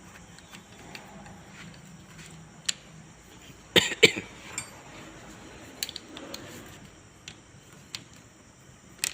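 Metal clicks and taps from hand-tool work, scattered and irregular, with two louder clanks close together about four seconds in.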